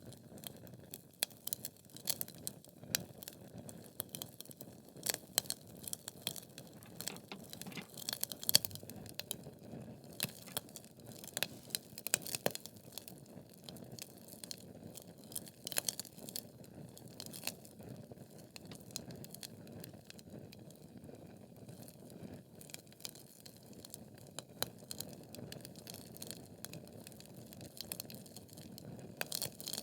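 Wood logs burning in a fireplace: irregular sharp crackles and pops over a low, steady rumble of the flames, the crackling busier in the first half.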